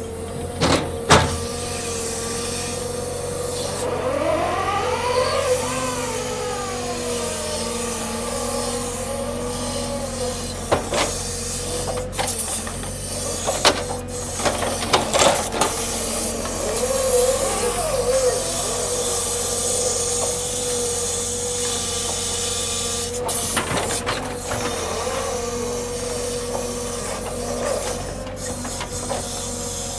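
Hydraulic machinery and engine running steadily with a constant whine, as a log truck is unloaded. The pitch sweeps up and then back down once about four seconds in, and sharp knocks and clunks come now and then.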